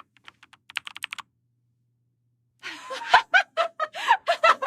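A quick run of light clicks, like typing on a keyboard, lasting about a second. After a short silence, a burst of snickering laughter starts a little past halfway.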